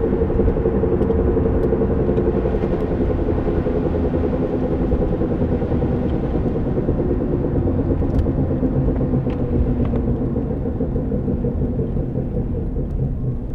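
1993 Honda Civic EX coupe in motion: steady engine and road rumble with a knocking, scraping noise mixed in, which the owner takes for a bad bearing. The rumble eases off slightly toward the end.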